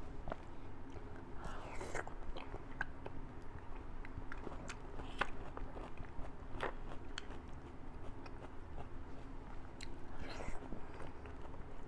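Close-miked mouth sounds of eating fatty beef and bone marrow: biting and chewing, with scattered wet clicks and smacks. A faint steady hum lies underneath.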